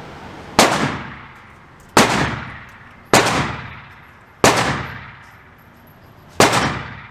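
Five gunshots fired one at a time at an unhurried pace, about a second or two apart, each followed by a fading echo.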